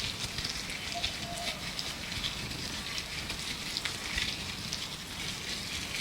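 Gloves being rubbed and handled close to the microphone: a continuous dense crinkling crackle full of tiny clicks. A faint bird call sits underneath about a second in.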